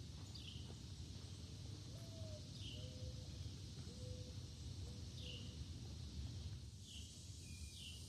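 A songbird repeatedly giving short, high, downslurred chirps every second or two, faint against a steady hiss of woodland background, with a few fainter, lower whistled notes in the middle.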